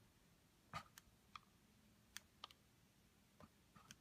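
Faint clicks of small plastic toy scissors snipping Play-Doh hair, about six scattered snips over the few seconds.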